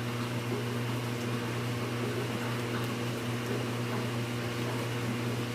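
Steady low hum with an even hiss, unchanging throughout, from a running machine or appliance.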